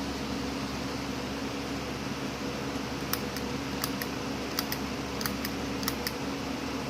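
A steady machine hum with a low, even tone, and a scatter of about ten light, sharp clicks from about three seconds in until about six seconds in.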